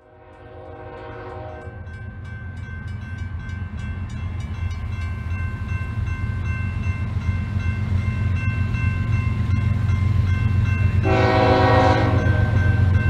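Diesel freight locomotives approaching a grade crossing, their rumble growing steadily louder, while the crossing bell rings steadily. The locomotive's multi-chime air horn trails off at the start and sounds again in a loud blast of about a second, roughly eleven seconds in.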